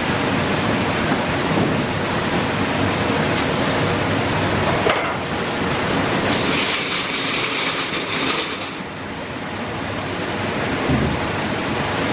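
Steady rushing noise, like a loud hiss, with a slight dip in level about nine seconds in.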